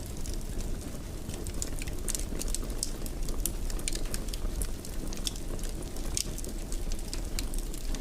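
Wood fire crackling in a fireplace: a steady low rumble of flames with frequent small irregular pops and snaps.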